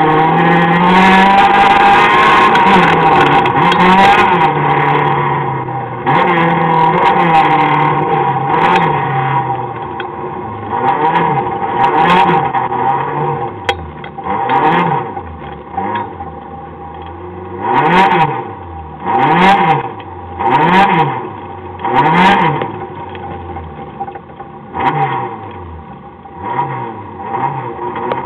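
Citroën AX rally car's engine heard from inside the cabin. For the first several seconds it is held at high revs. From about ten seconds in, it is revved up and let fall again and again in short blips, roughly every second and a half, over a lower steady running note.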